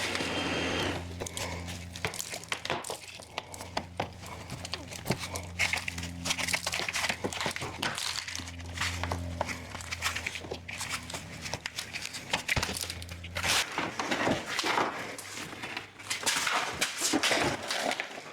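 Handling noises from taking car parts apart: many small clicks, knocks and crinkling, over a low steady hum that stops about thirteen and a half seconds in.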